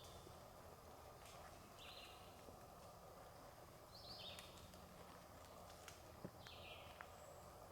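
Quiet woodland with a bird giving short buzzy calls, four in all, about two seconds apart. A few faint clicks of footsteps on dry leaves come in the second half.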